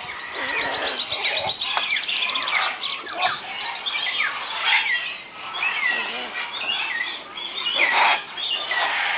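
Many birds chirping and whistling together, short overlapping calls, several of them sliding down in pitch, with a louder burst of calling about eight seconds in.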